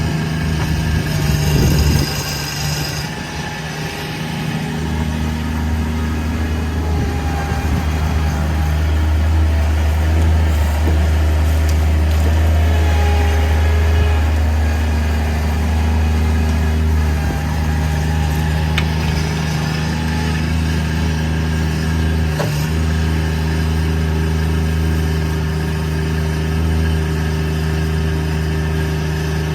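Bobcat MT100 mini track loader's engine running steadily while it works a backhoe attachment, with a deeper, stronger rumble setting in about five seconds in.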